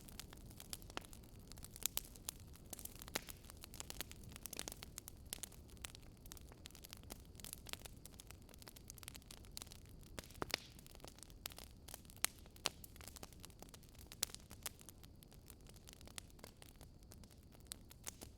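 Wood fire crackling: a low steady hiss with irregular sharp pops and snaps, a few of them louder, about two seconds, twelve seconds and fourteen seconds in.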